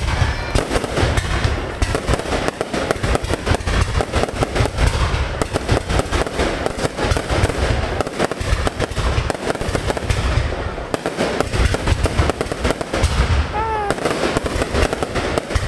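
Fireworks display: a dense, unbroken barrage of bursts and crackling over heavy low booms.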